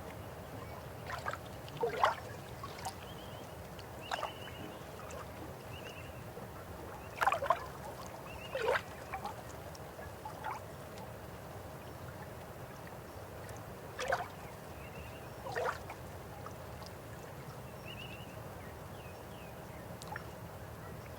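River water running steadily, with small birds chirping. Several louder, sharp sweeping sounds stand out a few seconds apart.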